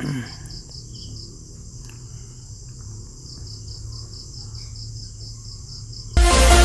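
Crickets chirping in an even pulsed rhythm over a low steady hum. Near the end, loud bass-heavy electronic music starts abruptly.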